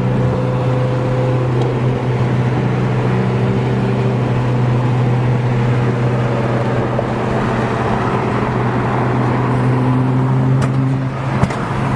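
Car driving at a steady speed, engine and road noise droning evenly with no revving.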